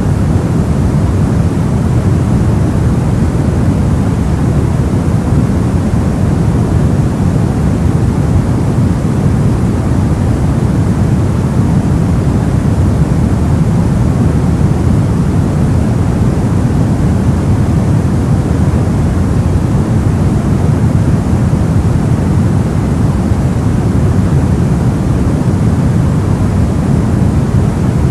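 Steady soft white noise, an even hiss weighted heavily toward the low end so it sounds deep and muffled, with no changes.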